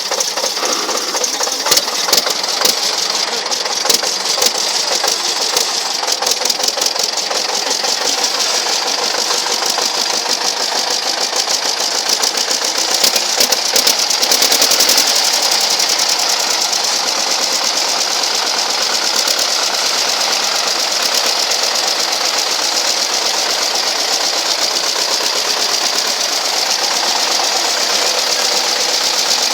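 Chinese T-28 tractor's engine running with a fast, even knocking beat; it picks up and grows louder about halfway through, then runs steadily.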